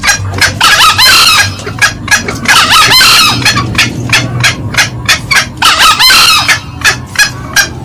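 Green junglefowl, male and female, cackling: a rapid run of short call notes, about two to three a second, with longer, busier bursts of calling about one, three and six seconds in.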